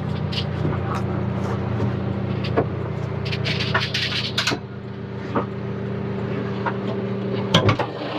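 John Deere 310K backhoe loader's diesel engine running steadily, with scattered metallic clicks and knocks from the machine and a heavier knock near the end.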